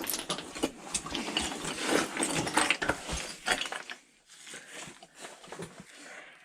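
Irregular scraping, rustling and clicking of a caver and his gear working through a very tight rock crawl, busy for about four seconds and then dropping to a few quieter knocks.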